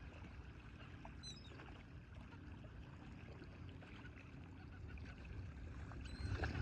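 Faint outdoor rumble of wind and water at the bay, growing louder near the end, with two brief high bird calls, one about a second in and one near the end.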